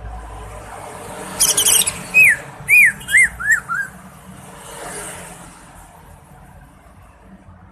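Greater green leafbird (cucak ijo) singing: a quick burst of very high chirps, then a run of five loud down-slurred whistled notes, each a little lower than the last.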